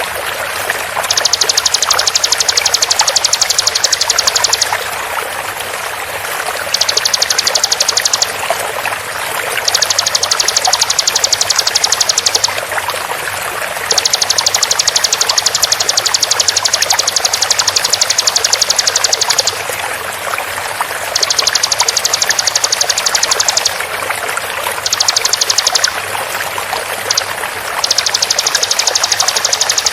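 Ciblek (bar-winged prinia) giving rapid-fire 'tembakan' song: bursts of very fast, evenly repeated high notes lasting one to several seconds, about eight bursts in all with short pauses between them. Throughout, it sits over a steady bed of flowing, trickling water.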